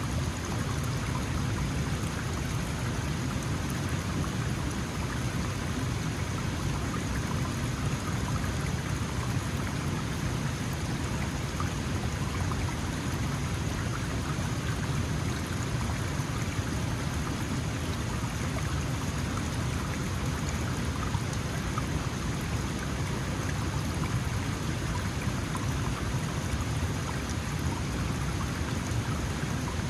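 Small mountain stream flowing steadily over rocks, an even babbling and splashing of water.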